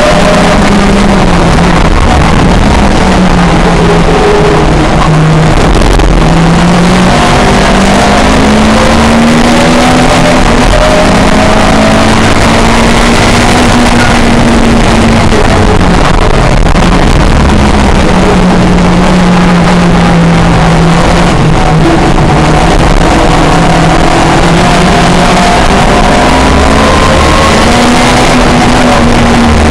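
Racing car engine running hard, its pitch rising and falling as it revs up and lifts off through the gears and corners. The sound is very loud throughout.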